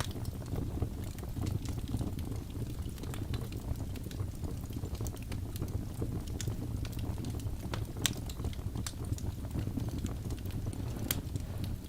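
Wood fire crackling in a fireplace: a steady low rumble of the flames with scattered sharp pops, the loudest about eight seconds in and again near the end.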